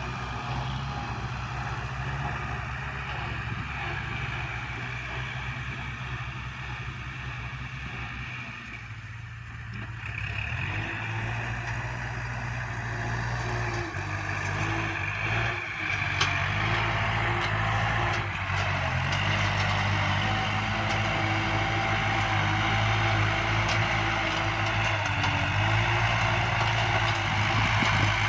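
Kubota farm tractor's diesel engine running steadily while working, pushing soil. It grows louder from about ten seconds in.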